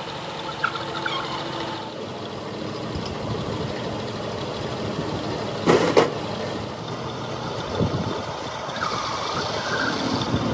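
A motor vehicle engine running steadily, with a short loud hissing burst a little over halfway through.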